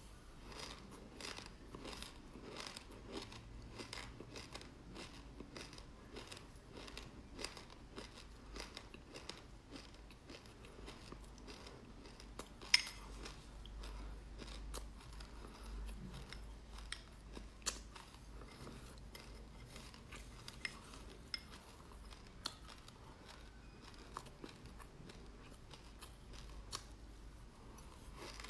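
Close-up chewing of black sesame seeds: a run of small crisp crunches and crackles in the mouth, with a few sharper clicks and one loud click about twelve seconds in.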